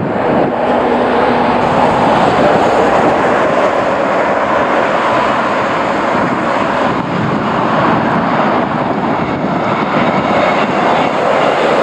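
A train running past, a steady loud rush of rolling noise.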